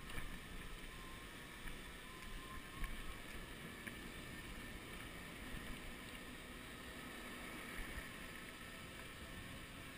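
Steady wind rumble on a chest-mounted action-camera microphone while riding an electric bicycle, with a few small knocks.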